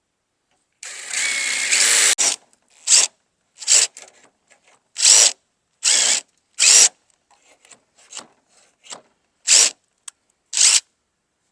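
Handheld power drill boring a hole through the steel sheet metal of a pickup tailgate: one longer run that speeds up about a second in, then a string of about seven short trigger bursts as the bit works through.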